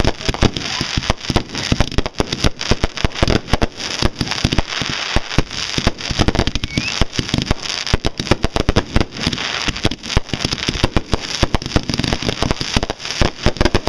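Fireworks going off in a long, rapid run of sharp, irregular bangs and crackles, many a second without a break, like a long firecracker string.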